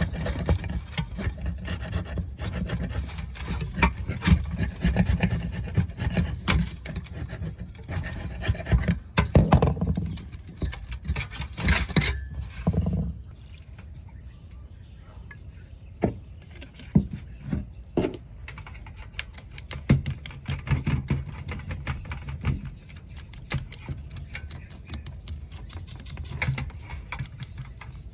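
Hand-work sounds of restoring a tape player: scraping and rubbing on the parts with a low rumble for the first half, a short hiss about halfway, then scattered clicks and knocks of tools and parts being handled.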